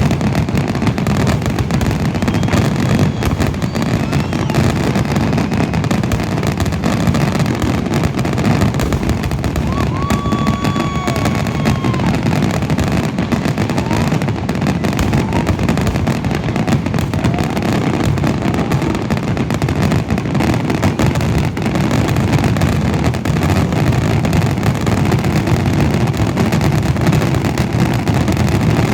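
A fireworks finale: aerial shells bursting in a dense, unbroken barrage of booms and crackle, with a few brief whistling tones gliding over it.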